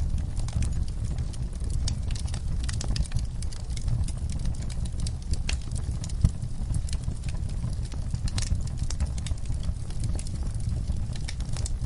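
Wood fire burning in an outdoor fireplace: irregular sharp crackles and pops over a steady low rumble.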